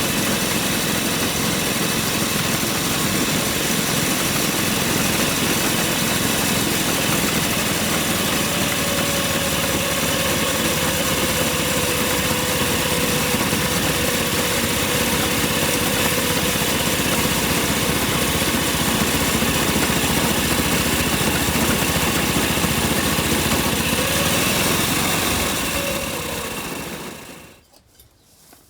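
Small non-steam locomotive on a 7¼-inch gauge railway running with a steady engine and wheel-on-rail noise, with a faint wavering whine partway through. The sound fades away near the end.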